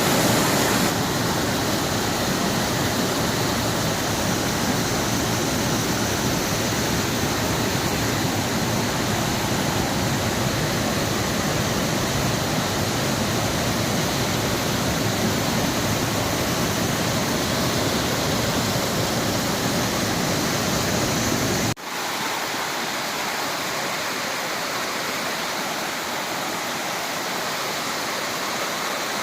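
Waterfall's water rushing steadily with a deep rumble. About 22 seconds in it breaks off abruptly and resumes as a quieter, thinner rush with little low rumble.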